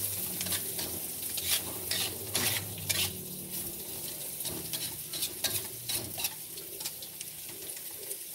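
Chopped chilies, garlic, shallots and dried shrimp sizzling in hot oil in an aluminium wok while a spatula scrapes and taps against the pan: the aromatics being sautéed until fragrant. The scraping is busiest in the first three seconds and lighter after.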